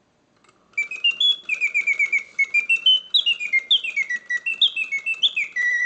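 Karl Griesbaum singing bird cage's leather-bellows whistle mechanism starting its mechanical bird song again after a silent pause, about a second in: rapid chirps and trills, then a series of falling whistled notes. The pause-and-resume shows the pause feature working.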